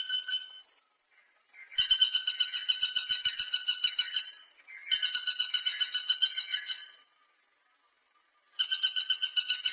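Woodpecker calling: rapid rattling series of high, nasal piping notes, about eight a second, in bouts of two to three seconds. One bout is ending at the start, then three more follow with short pauses between them.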